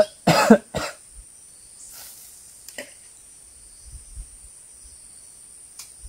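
A person coughing three times in quick succession about the start, over a steady high chirring of insects that carries on throughout.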